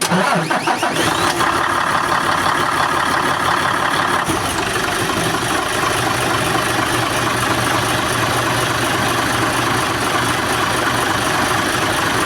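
Diesel truck engine that has been hard-starting is started on the starter, with a Hino pump control valve fitted to its fuel supply pump. It catches and settles into steady running after a few seconds.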